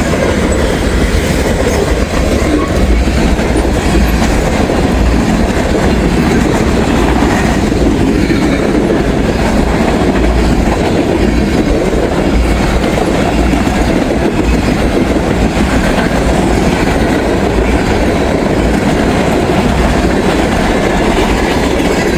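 Freight train cars rolling past at speed, a steady, loud rumble and rattle of steel wheels on the rail.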